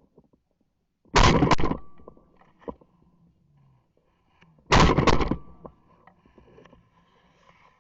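Two shotgun shots about three and a half seconds apart, each a sharp blast with a short echo trailing off. They are follow-up shots at a hit duck that got back up, fired to bring it down.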